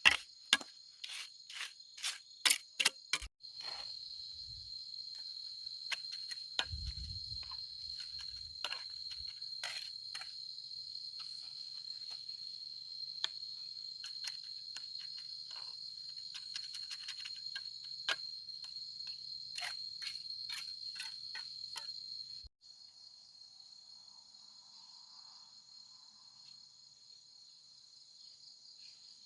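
A steady high-pitched insect chorus, crickets by their sound, over scattered sharp clicks and knocks that come thickest in the first three seconds. The chorus drops abruptly and goes on quieter a little over 20 seconds in.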